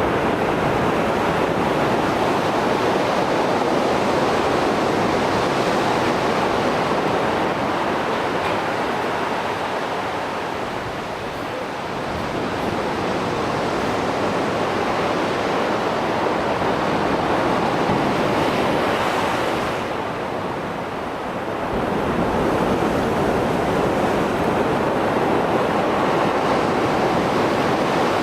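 Mediterranean Sea waves breaking and washing on the shore in post-storm swell, a continuous heavy rush that eases briefly twice and swells back.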